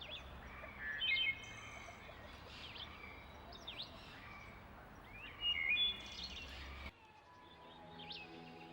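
Several birds chirping and calling over a steady low background hum, with loud bursts of calls about a second in and again about five and a half seconds in. Near the end the background cuts off abruptly and steady low tones come in under the bird calls.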